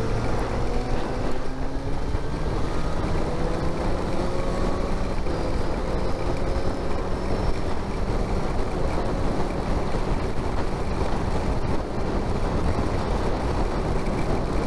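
Motorcycle engine pulling away, its pitch climbing slowly over the first five or six seconds and then holding, under a steady rush of wind noise on the rider's microphone.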